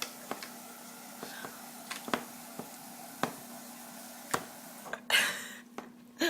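Scattered single light clicks and knocks, as of objects being handled and set down, over a steady low hum, with a short rustling burst about five seconds in.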